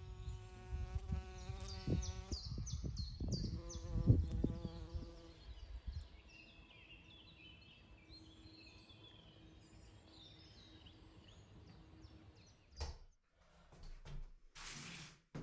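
A flying insect buzzing close by, strongest in the first few seconds, with small birds chirping in the background. A short rustling noise comes near the end.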